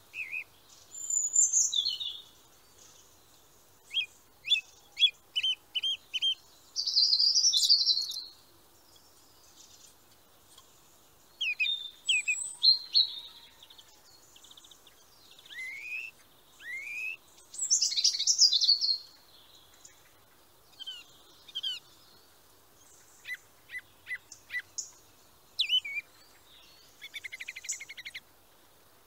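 Small songbirds singing: short phrases of high chirps and rising whistles with pauses between them, a quick run of repeated notes about five seconds in, and a fast trill near the end.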